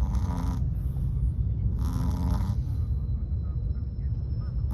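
A Chihuahua snoring: two short snores about two seconds apart, over the steady low rumble of a taxi in motion.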